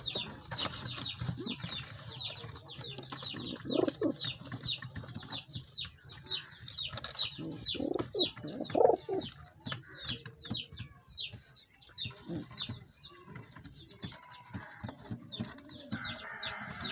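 Small birds peeping without pause: short, high chirps that slide downward, about three or four a second. A few lower, louder calls come in about four and nine seconds in.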